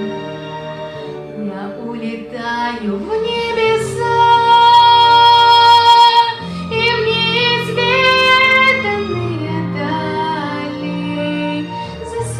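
A girl singing a slow song over a backing track, holding long notes that bend and slide between pitches, with a low sustained accompaniment underneath.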